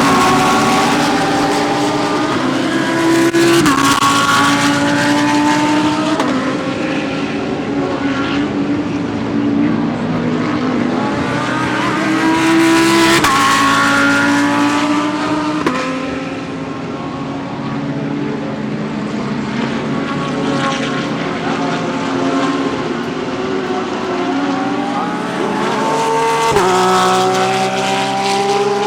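GT3 race cars accelerating one after another, engine notes rising in pitch with several sudden drops at gear upshifts.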